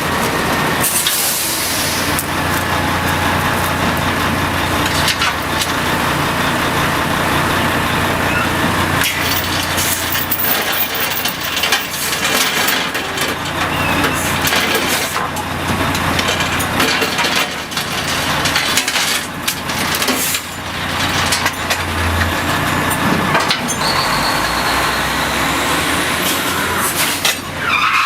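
Kelly drilling rig floor: machinery running with a steady low hum under a constant noisy din, broken by repeated metal knocks and clanks.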